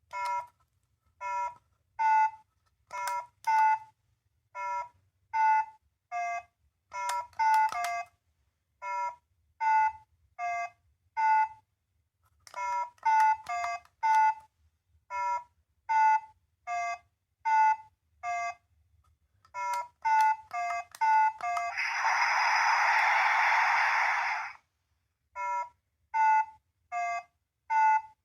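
Small electronic sound-effect capsule toy giving a long run of short electronic beeps, one at a time, some stepping down from a higher to a lower tone. Near the end it plays a steady hissing burst of about two and a half seconds.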